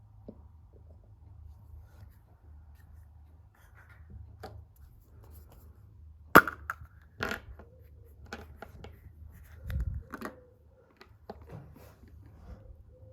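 Small plastic pieces being handled, such as a surprise-egg capsule and toy: a run of sharp clicks and taps, with one loud snap about six seconds in and a dull knock near ten seconds.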